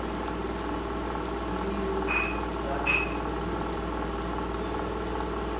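Steady background hum in a small room, with faint rapid ticking and two short high beeps about two and three seconds in.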